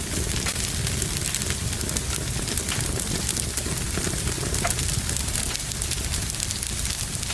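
Wood fire crackling in a fireplace: a steady hiss and low rumble of flames, with many small sharp pops and snaps scattered throughout.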